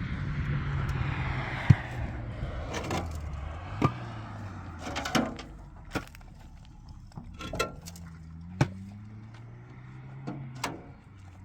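A motor running with a low hum that shifts in pitch, rising about eight seconds in, with a sharp knock every couple of seconds.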